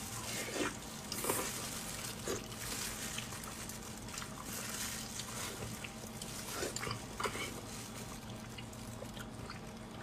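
Wet chewing and sucking mouth sounds of someone eating a large slab of fatty pork, with soft squelches and small smacks.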